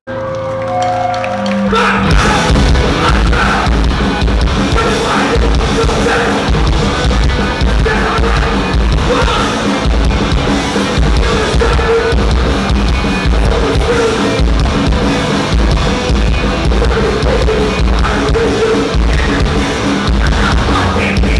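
Live hardcore punk band playing loud, with distorted guitars and drums. A few sustained notes ring out at first, and the full band comes in about two seconds in.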